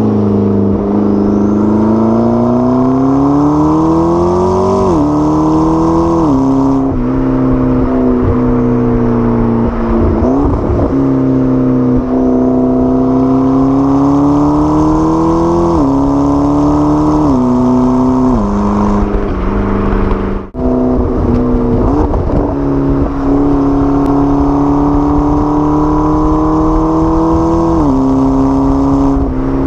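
McLaren 12C's twin-turbo V8 pulling through the gears: engine pitch climbs steadily, then drops sharply at each upshift, about every few seconds. A brief cut-out in the sound about twenty seconds in.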